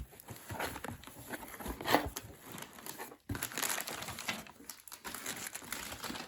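Packing material crinkling and rustling as cordless phones and their manuals are unpacked from a shipping box by hand, an irregular crackle with sharp crinkles, loudest about two seconds in.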